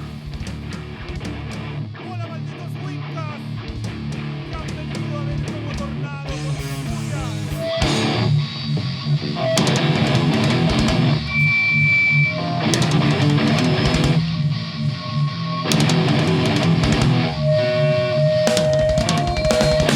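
Heavy metal band playing live: electric guitars, bass and drums in an instrumental intro. A quieter guitar passage builds into the full band about eight seconds in, with distorted riffs and held lead-guitar notes.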